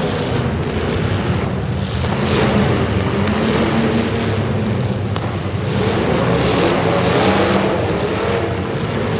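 Demolition derby cars' engines running and revving, several at once, with a brief sharp knock about five seconds in.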